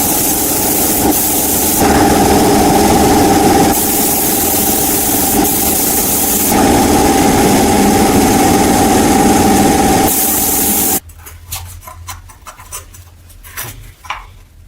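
A motor-driven power tool running at speed, giving a loud hissing, grinding noise with a steady whine, in several cut segments. About eleven seconds in it stops, leaving only scattered light clicks and knocks.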